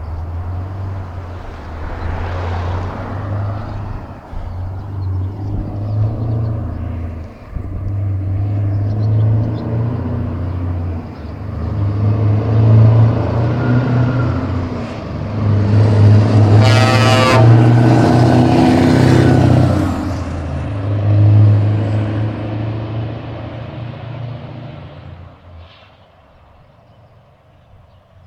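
Scania R560's V8 diesel engine running through loud pipes, swelling as it comes close and fading out over the last few seconds. A short horn blast sounds about two-thirds of the way through.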